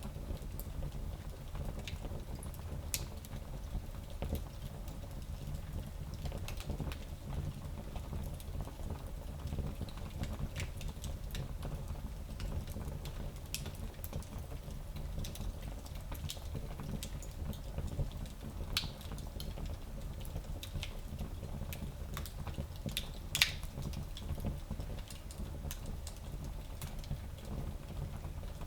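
Fire burning in a fireplace: a steady low rumble with scattered crackles and pops, and one sharper pop about 23 seconds in.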